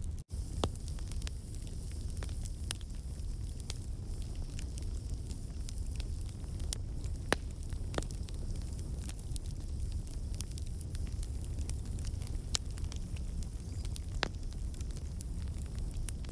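Wood campfire burning: the logs crackle and pop irregularly over a steady low rumble of flame and a faint high hiss. The sound drops out for an instant just after the start.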